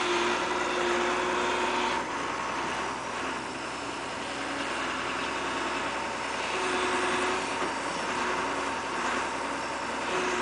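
An engine running steadily, with a faint hum that comes and goes over a constant rushing noise.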